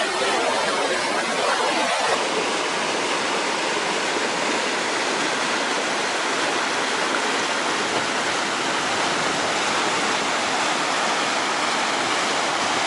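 Rushing river water, a steady, even rush with no engine tone in it.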